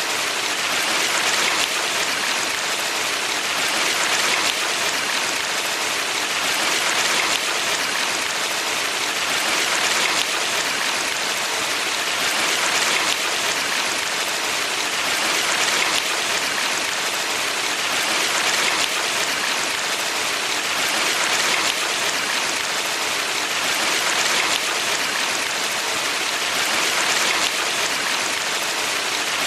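Steady rushing and splashing of a valley stream, a dense even hiss of running water that swells gently about every three seconds.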